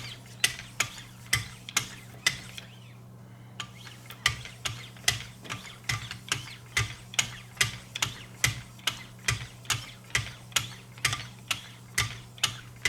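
Lapping-film paddle on a guided knife-sharpening system stroked repeatedly along a blade's edge to mirror-polish it, giving a sharp click at each stroke, about two or three a second, with a brief pause about two and a half seconds in.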